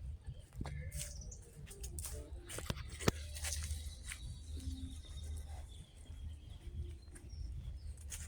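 Outdoor ambience: faint bird chirps over a steady low rumble, with scattered clicks and one sharp knock about three seconds in.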